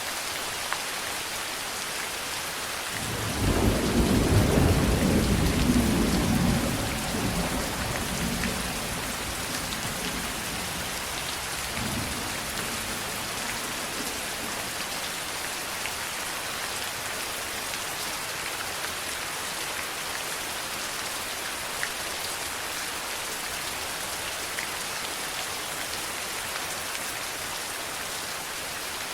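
Steady rain hissing throughout. About three seconds in, a low rumble of thunder swells, holds for a few seconds and fades, and a fainter rumble follows around twelve seconds in.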